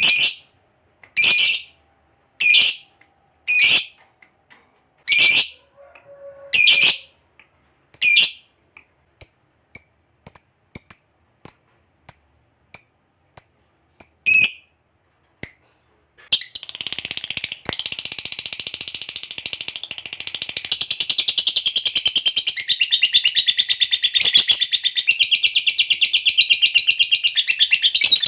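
Lovebird calling: short, shrill chirps spaced roughly a second apart for the first half. Then, a bit past halfway, it breaks into one long unbroken rapid chattering trill, the prized "ngekek panjang" song.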